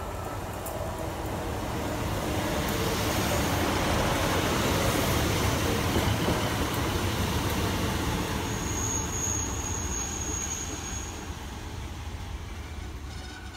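Class 150 Sprinter diesel multiple unit passing close by, its engine and wheel noise swelling to a peak about halfway through and fading as it moves away. A brief thin, high-pitched squeal comes in the second half.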